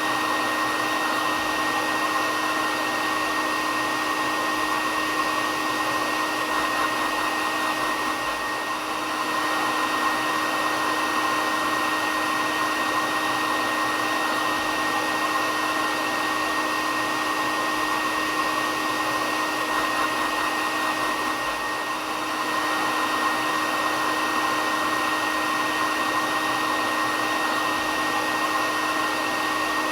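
Hair dryer running steadily: an even whooshing rush of air with a constant motor whine, played as a continuous white-noise sleep sound.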